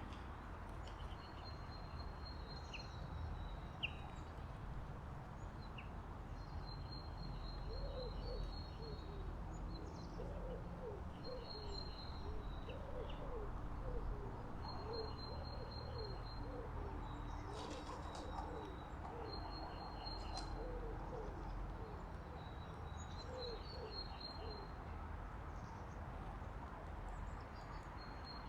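Small songbirds giving short high chirps every few seconds while a pigeon coos in a long run of low, repeated notes from several seconds in until near the end, over a steady low background rumble.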